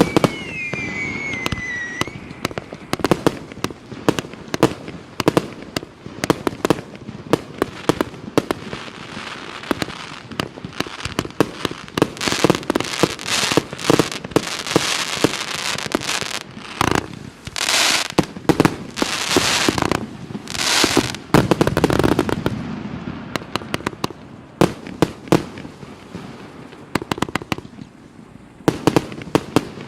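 A 124-shot consumer fireworks cake of 1-inch and 1.2-inch tubes firing shot after shot in a fast string of sharp bangs. Falling whistles are heard in the first couple of seconds, and there are denser, longer bursts through the middle.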